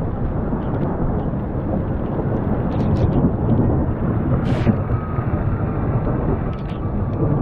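Rainstorm noise: a steady, dense low rumble, with a few faint sharp ticks on top.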